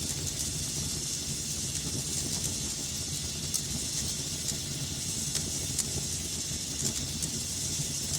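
Fireplace fire burning with a steady hiss and low rumble, and irregular sharp crackles and pops scattered throughout.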